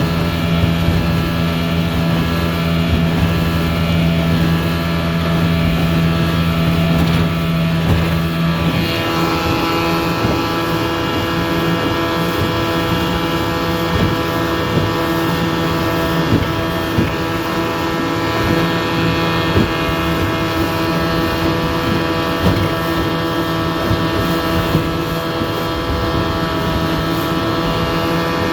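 The 1983 Johnson 7.5 hp outboard motor is running steadily under throttle, pushing the boat along, with wind on the microphone. Its engine tone shifts about eight and a half seconds in, then holds steady again.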